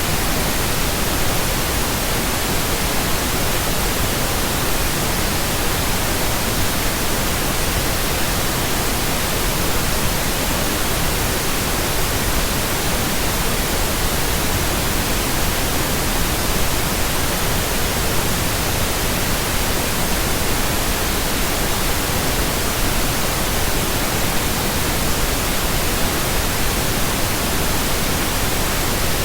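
Steady synthetic pink noise: an even, unchanging hiss across the whole range, with no tones or events.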